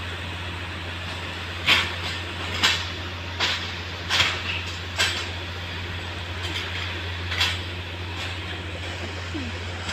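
Railway track maintenance machine running with a steady low engine hum, while a series of sharp metallic clanks sounds, about one a second at first and then a last one a couple of seconds later.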